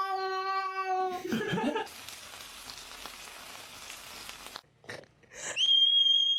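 A cat's long, drawn-out yowl on one steady pitch, ending about a second in. It is followed by a few seconds of steady hiss, and near the end by a short, high, steady tone.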